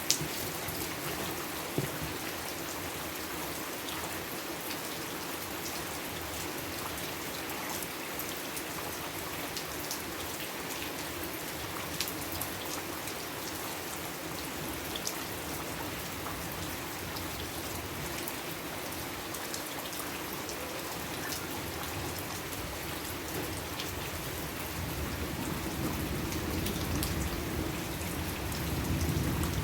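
Steady rain falling on a surface, with scattered louder drop ticks. A low rumble builds over the last few seconds.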